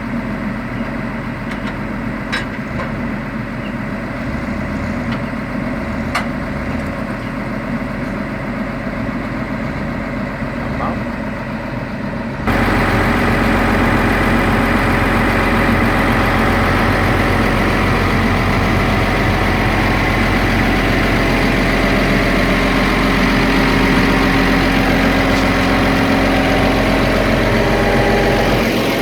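Forestry machine's engine running steadily. About twelve seconds in, the sound jumps abruptly louder and brighter and stays that way.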